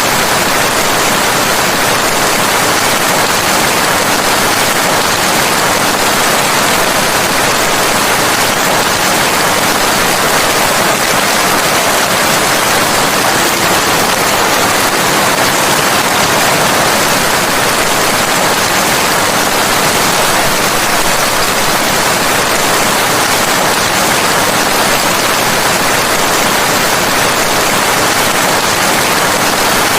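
Steady rain, an even hiss that holds at one level throughout, with no separate drops or thunder standing out.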